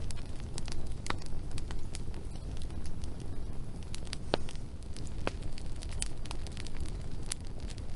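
Wood fire crackling, with irregular sharp pops and snaps over a steady low rumble of the burning.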